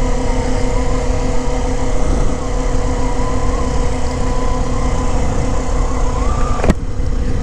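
Kawasaki Z400's parallel-twin engine running at a steady speed, under heavy low rumble of wind on the helmet microphone. There is a single sharp click near the end.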